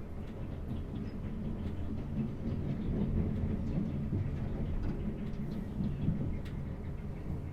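A South Western Railway passenger train running, heard from inside the carriage: a steady low rumble with a few faint clicks.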